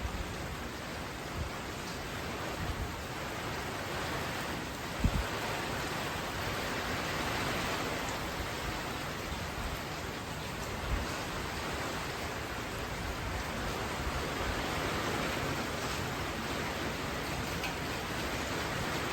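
Steady rush of hurricane rain and wind, with low gusty rumbles and a sharp knock about five seconds in.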